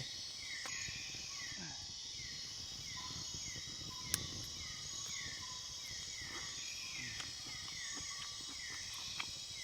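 Insects shrilling in a steady high chorus, with a short falling chirp repeating less than a second apart. A single sharp click about four seconds in.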